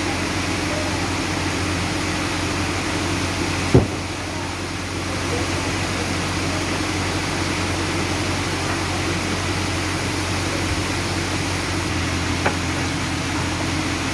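Sawmill machinery running steadily with a constant mechanical hum. There is one sharp knock about four seconds in and a smaller click near the end.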